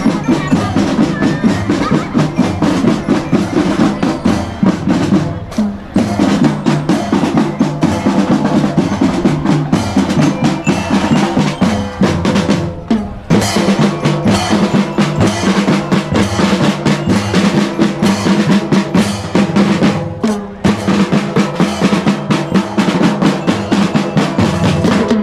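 A school drum band playing: snare drums with rolls over bass drums in a steady, fast beat, with short breaks about five, thirteen and twenty seconds in.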